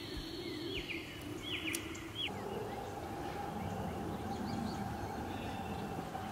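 Small birds chirping: several short, falling chirps over outdoor background noise in the first two seconds. A steady faint hum comes in about two seconds in and continues.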